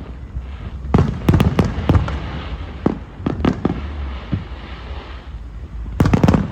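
Aerial fireworks shells bursting overhead: a string of sharp bangs at irregular intervals over a low rumble, with a louder cluster of bangs near the end.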